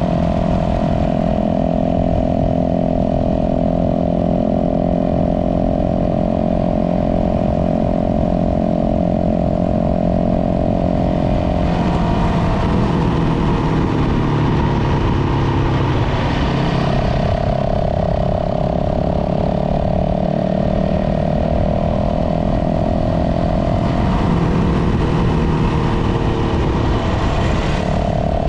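Dirt bike engine running along a trail at a steady pace, with the engine note shifting as the throttle changes about twelve seconds in and again near the end.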